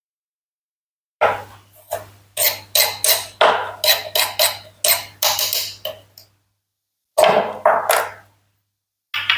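Toy knife cutting through plastic and wooden toy fruit: a quick run of about a dozen sharp clacks over about five seconds, then after a short pause a few more.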